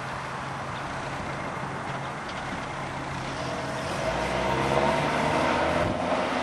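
A car engine running steadily, getting louder about four seconds in.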